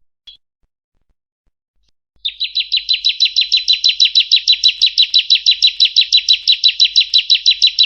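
Female bar-winged prinia (ciblek) calling: a short chirp, a pause of about two seconds, then a fast, even series of high, sweeping notes, about six a second.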